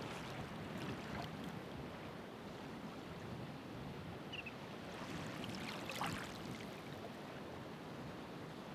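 Ocean waves washing on a shore: a steady surf wash, with a louder splash of breaking water about six seconds in.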